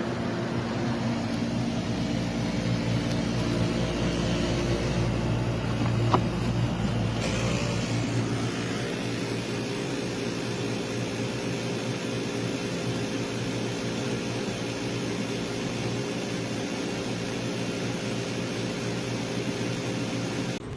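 SereneLife 10,000 BTU portable air conditioner running: a steady hum from compressor and fan with airflow hiss. There is a short click about six seconds in, and the hiss changes character about a second later.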